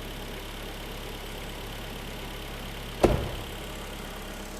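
Freshly rebuilt G4KD 2.0-litre four-cylinder engine idling steadily. About three seconds in, a car door is shut with a single heavy thud; the door is still stiff and doesn't close easily.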